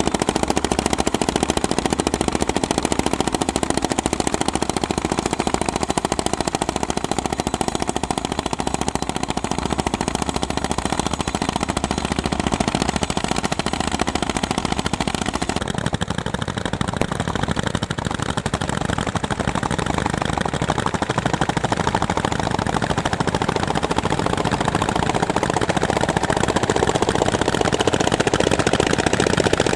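Single-cylinder two-stroke hot-bulb tractor engines running under plowing load, with a rapid, even thumping exhaust beat. The tone of the engine sound changes about halfway through.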